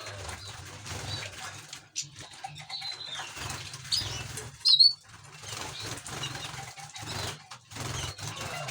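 Small cage birds fluttering their wings, with short high chirps. The loudest is a sharp chirp a little past the middle.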